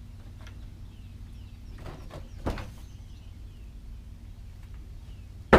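A few knocks and a sharp, loud thump near the end, over faint, short, down-slurred bird chirps and a low steady hum.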